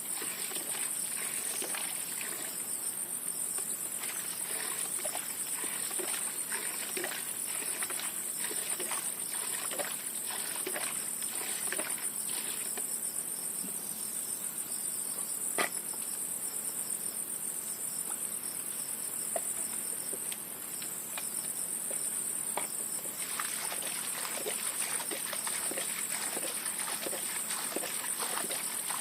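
Steady, high-pitched chorus of insects trilling, with scattered small clicks and ticks.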